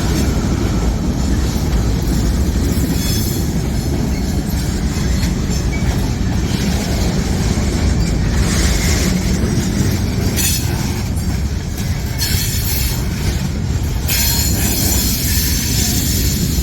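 Freight train rolling past, a steady heavy rumble of wheels on rail with stretches of high-pitched wheel squeal.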